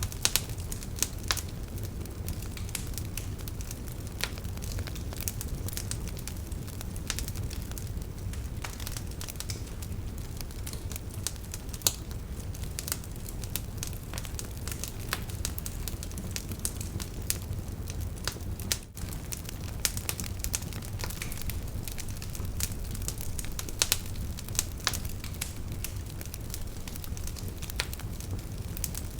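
Wood fire burning in a fireplace: a steady low rumble of the flames with irregular sharp crackles and pops of the burning wood.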